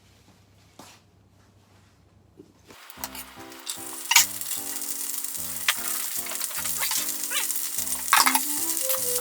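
Food hitting hot oil in a frying pan and sizzling loudly from about three seconds in, with the scrape and clatter of stirring. A few faint clicks come before it.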